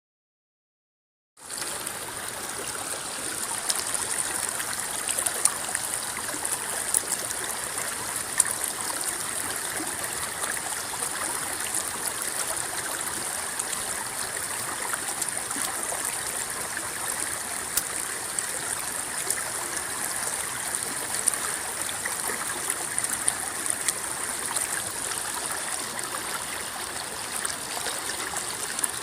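River water rippling and babbling in a steady rush, with many small sharp splashes through it. It starts suddenly about a second and a half in, after silence.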